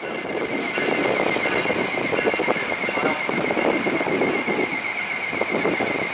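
Electric commuter train rolling past, a loud rumble of wheels on rail with repeated clacks and a steady high whine.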